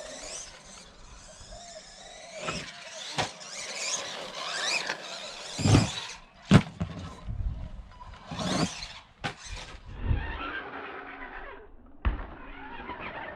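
Whine of a 1/16 RC monster truck's brushed electric motor and gears, rising and falling as the throttle is worked. Several sharp knocks are heard as the truck bangs about, the loudest about six seconds in.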